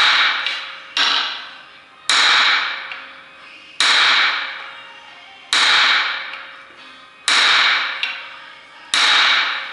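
About seven heavy blows of metal on metal, each ringing out, spaced a second or two apart: hammering to free a seized diesel injector from the cylinder head of an Opel Vivaro 2.0 CDTI engine.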